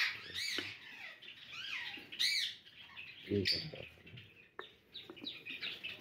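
Java sparrows chirping in the aviary: scattered short, arched chirps, a few at a time.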